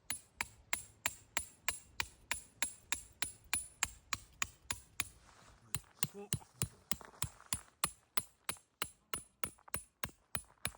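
Rapid, evenly spaced knocks, about three a second, like light tool strikes on wood.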